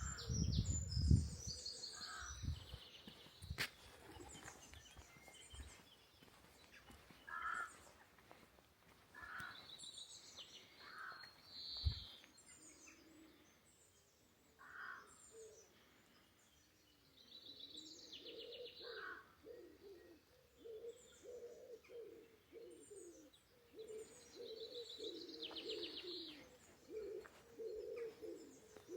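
Small songbirds singing and chirping with repeated high trills, and a pigeon cooing in a low, pulsing series through the second half. A few low thuds sound in the first couple of seconds.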